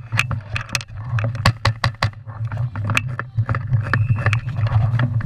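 Airsoft guns firing: scattered sharp cracks, irregularly spaced, several a second at times, over a steady low rumble.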